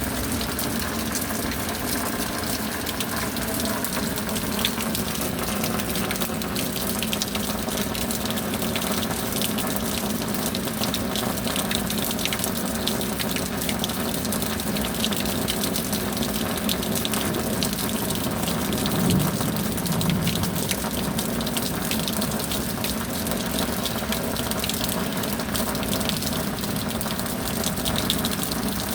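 Steady heavy rain pouring, an even dense hiss full of fine drop crackles, with a brief low swell about two-thirds of the way in.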